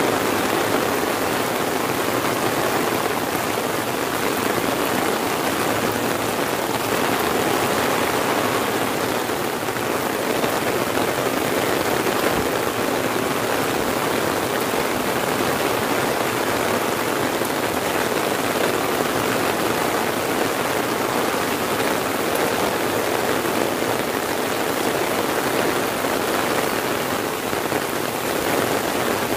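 Heavy rain falling steadily on an umbrella held overhead and on the surrounding grass and trees.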